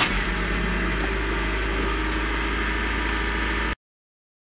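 1999 Honda Civic sedan's four-cylinder engine idling steadily, heard from inside the cabin; it cuts off suddenly near the end.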